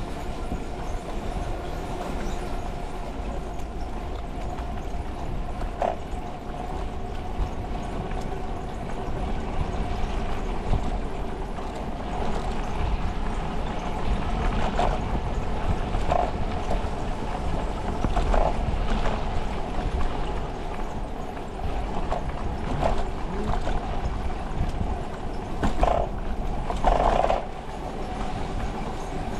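Riding noise from a bicycle on the move: steady wind and tyre rumble with a constant hum, broken by several brief louder sounds, the longest near the end.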